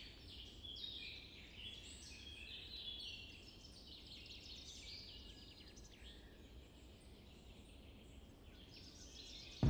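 Songbirds chirping and twittering, many short overlapping calls that are busiest in the first few seconds and thin out toward the end, over a faint low hum.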